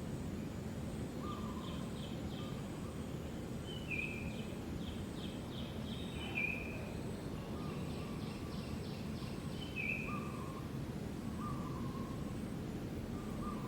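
Steady outdoor background noise with short chirping bird calls repeating every few seconds, some higher and some lower, and a faint rapid trill.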